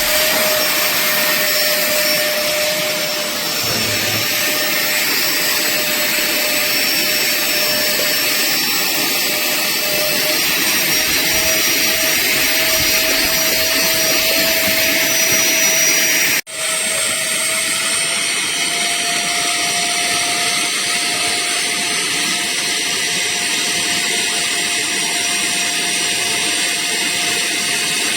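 A portable upholstery wet vacuum cleaner's motor running steadily with a whining tone. The sound cuts out for an instant a little past halfway, then runs on.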